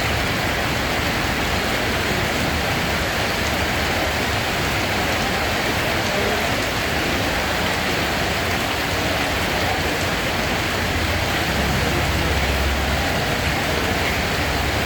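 Steady rain, an even hiss with no pauses, with a low rumble swelling briefly about eleven seconds in.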